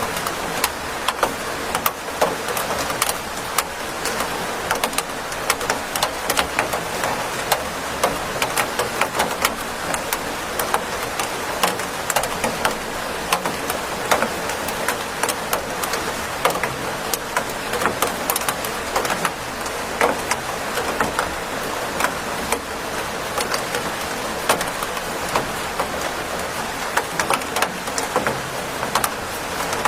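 Steady rain falling on a hard surface, a constant hiss dotted with many sharp individual drop ticks.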